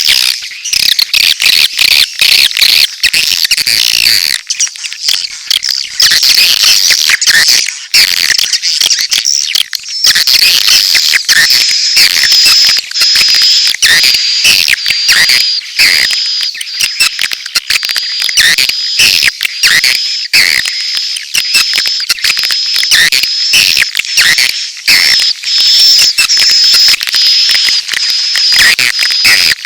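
Recorded swiftlet calls of the mating and chick kinds used as a swiftlet-house lure: a dense, fast chatter of high chirps and clicks. A thin steady high tone runs under them through the second half.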